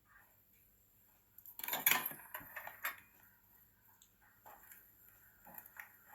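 Handling noise as the camera is moved and set in a new position: a burst of rustling about two seconds in, a sharp click about a second later, then a few lighter clicks and knocks.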